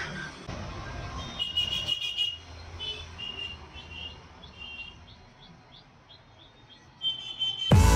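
A small bird chirping in short, high, repeated notes, several to the second in the middle stretch, over low street traffic noise. Loud music cuts in abruptly near the end.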